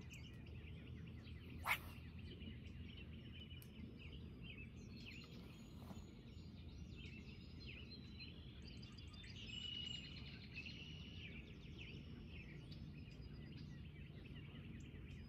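Many small birds chirping and calling over a faint, steady low background rumble, with one sharp click a little under two seconds in.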